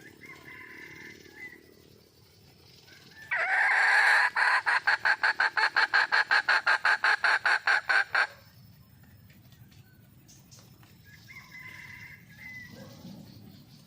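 Red junglefowl hen calling. About three seconds in, a loud call breaks into a fast, even run of clucks, about five a second, lasting some four seconds, with softer short calls before it and near the end.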